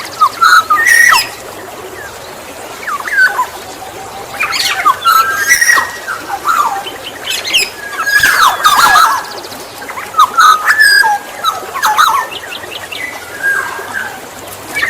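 Black-naped oriole calling in repeated short phrases, a phrase every second or two: fluty whistled notes mixed with harsh, rasping calls.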